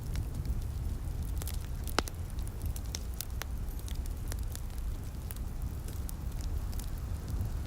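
Wood fire in a fireplace crackling, with irregular sharp pops, the loudest about two seconds in, over a steady low rumble.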